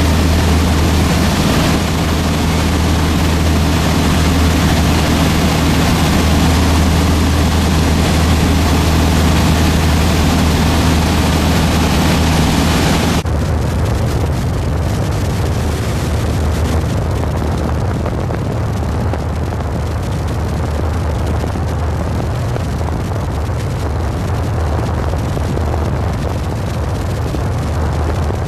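Storm wind blowing hard across the microphone: a loud, steady rush with a deep rumble. About halfway through the sound changes abruptly and becomes less hissy, keeping the low rumble.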